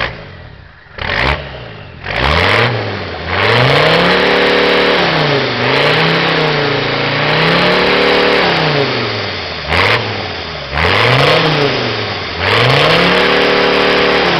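Mercedes five-cylinder turbo diesel in a pickup being revved unloaded: a couple of quick blips at first, then several long revs that climb, hold high for a second or more and fall back to idle.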